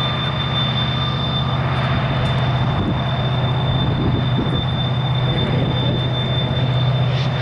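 Steady low rumble of a long, slow double-stack intermodal train climbing a grade, its all-EMD diesel locomotives pulling hard, with a thin, steady high-pitched tone over the rumble.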